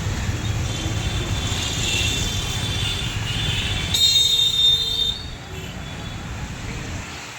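Train moving on the rails: a low rumble with high, squealing wheel tones. The squeal is loudest about four seconds in, then the sound drops quieter.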